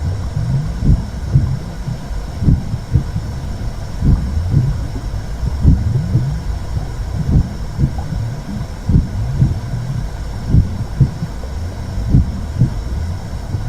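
Womb sound for soothing babies: a steady low whooshing rumble with a heartbeat-like pulse a little under once a second, over a faint hiss.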